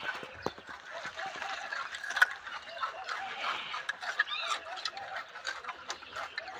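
Birds chirping and clucking in quick, overlapping short calls, with scattered sharp clicks, the loudest about two seconds in.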